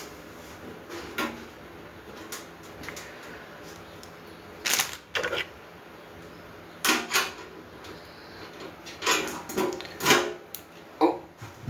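Irregular knocks and clatters of grill parts and hardware being handled during assembly, in short clusters separated by quieter gaps.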